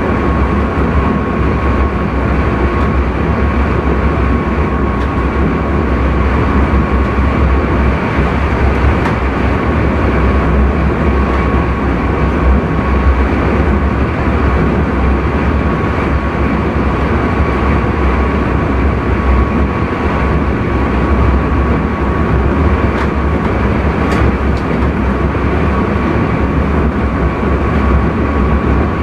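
Intercity train running steadily, heard from the driver's cab: a constant rumbling running noise with a thin, steady high tone that fades out partway through and comes back near the end.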